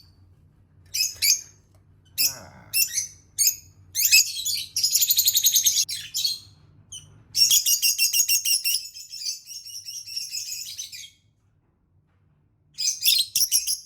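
Small pet parrots chattering: bursts of rapid, high-pitched chirping, with a longer run of chatter in the second half and a short burst near the end.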